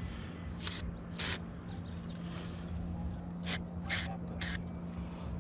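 Short hissing spritzes from a pump spray bottle of fish attractant being sprayed onto a lure: two about a second apart, then three quick ones in the second half. A small bird chirps a few times, over a steady low hum.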